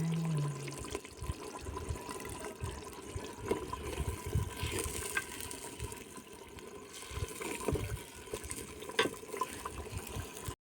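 Water or liquid sounds, irregular rather than a steady stream, with scattered small clicks and knocks throughout.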